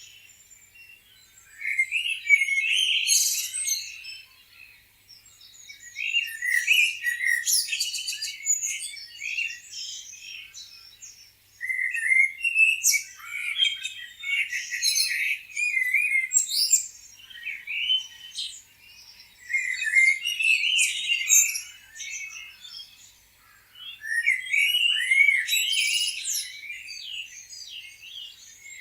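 Several songbirds chirping and trilling over one another, in bouts of a few seconds with short lulls between them.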